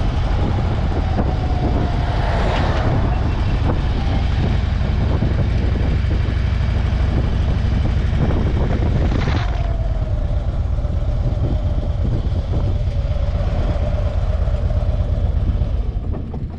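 Motorcycle riding at speed: a steady low engine rumble under heavy wind noise on the microphone, with a tone that slowly falls, once near the start and again about nine seconds in.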